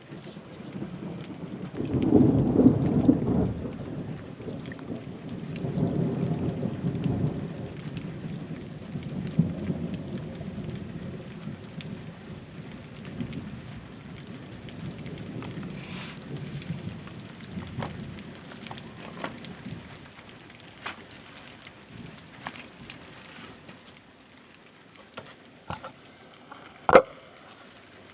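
Rain with rolling thunder: a loud low rumble about two seconds in and a second about six seconds in, dying away over the next several seconds. The rain then carries on more quietly with scattered drips and a sharp tap near the end.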